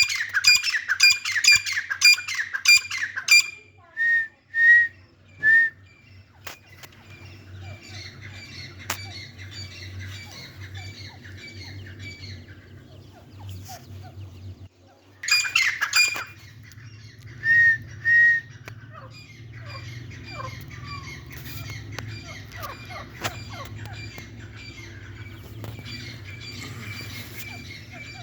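Gray francolin calling: runs of loud, harsh calls about three a second at the start and again about halfway, each followed by a few short sharp notes. In between there is softer chirping and chattering, over a low steady hum.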